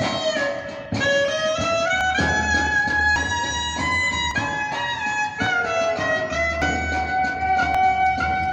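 Instrumental music: a violin-like lead melody moving between long held notes over a steady low bass, with plucked guitar-like notes underneath.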